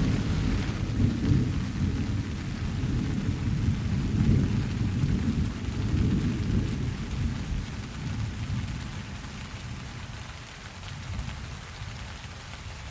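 Steady rain falling, with a long roll of thunder that rumbles through the first several seconds and dies away over the second half, leaving the rain alone.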